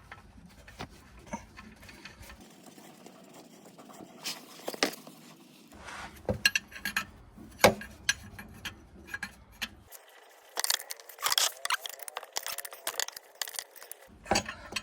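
Scattered metallic clicks, clinks and light knocks of hand tools and parts being handled while fitting a new hydraulic filter, busier in the last few seconds.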